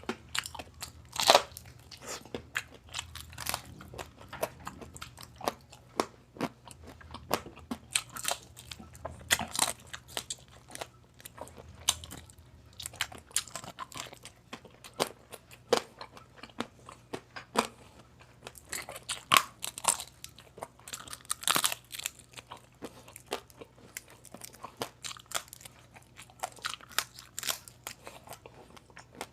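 Close-miked crunching and chewing of crispy pata, deep-fried pork knuckle skin: many irregular sharp crunches, with a few louder bites about a second in and around two-thirds of the way through.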